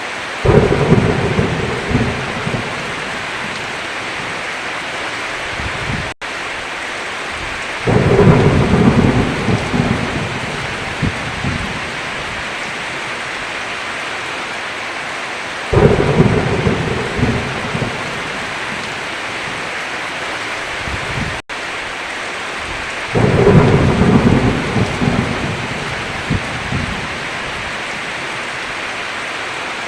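Heavy rain falling steadily, with thunder rumbling four times at roughly even intervals, each rumble starting suddenly and fading over a few seconds. The sound cuts out for an instant twice.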